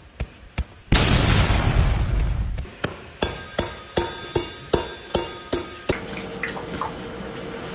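A loud crash-like burst of noise that fades over about a second and a half, followed by a regular series of sharp clinking strikes, about three a second, each with a ringing tone, then a steady tone near the end.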